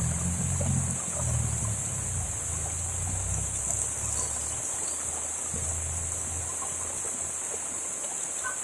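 Outdoor heavy-rain ambience: a steady rush of rain and running water with a constant high hiss, and a low rumble that fades out about six and a half seconds in.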